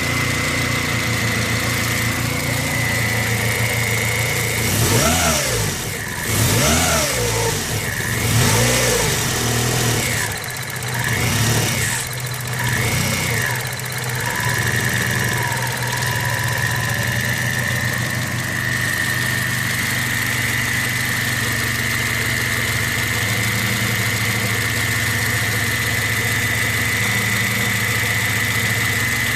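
1989 Honda CRX ZC engine idling, with a steady high-pitched whine from worn alternator bearings. The engine is revved several times between about five and fourteen seconds in, and the whine rises and falls with the revs before settling back to idle.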